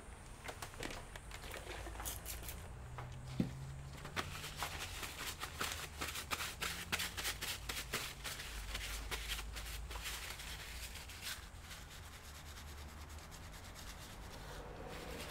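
Hands working on laptop parts: a quick run of small plastic-and-metal clicks with scratchy rubbing, busiest in the first two thirds and thinning out near the end.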